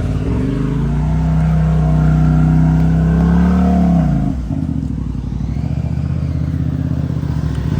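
Side-by-side UTV engine revving up hard and holding high revs for about three seconds, then dropping back to a lower steady run about four seconds in.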